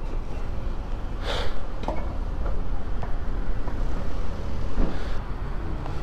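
Steady low vehicle rumble with a brief hissing burst about a second in and another around five seconds.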